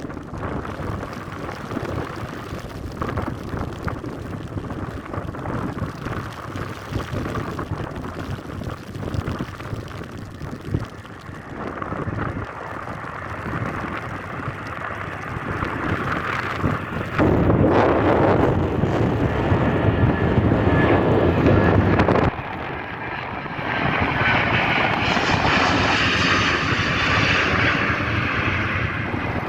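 Boeing 777 jet engines at takeoff power, heard through wind and rain noise. The rumble gets much louder about two-thirds of the way through, and near the end a sweeping, shifting whine sounds as the jet passes.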